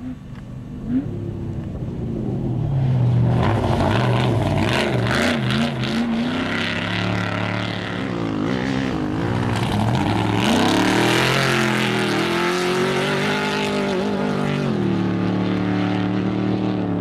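Off-road race vehicle's engine running hard at high revs as it comes through on the course, building up a few seconds in, its pitch rising and dipping with throttle and gear changes about halfway, then dropping away near the end.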